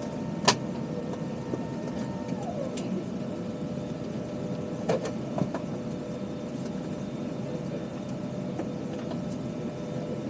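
Steady hum of an Airbus A320 cabin at the gate, its air and ventilation running with a few steady tones. One higher tone glides down and stops about two seconds in. A few sharp clicks or knocks come about half a second in and again around five seconds in.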